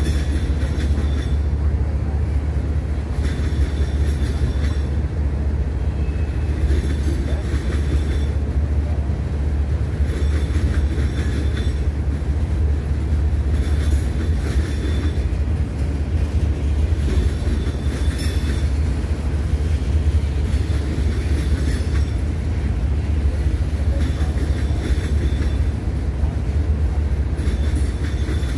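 A train rolling steadily past with a constant low rumble, its cars' wheels clicking and rattling every second or few.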